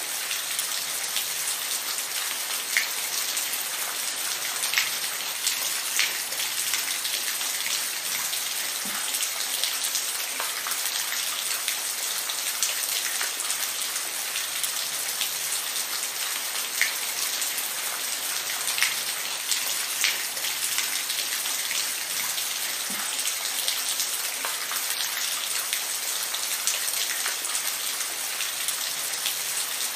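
Steady rain falling, an even hiss with individual drops ticking sharply every second or two.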